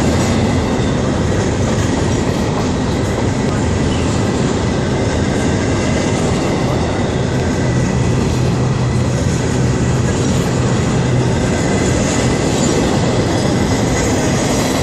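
Cars of a long Florida East Coast Railway train rolling past steadily: a dense, even rumble of wheels on rail, with a thin steady high tone riding above it.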